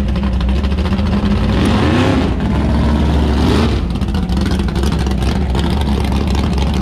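1971 Dodge Dart drag car's 451 stroker V8 running as the car drives by, a steady low drone that swells louder twice in the middle, around two seconds and again around three and a half.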